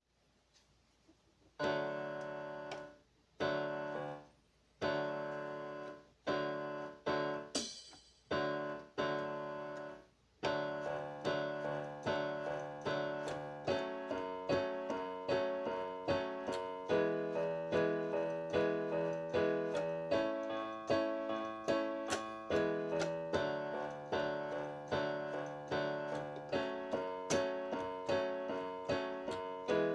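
Solo piano. After a brief near-silent start, single chords are struck slowly, each left to fade. From about ten seconds in the chords give way to a steady, flowing pattern of repeated broken chords.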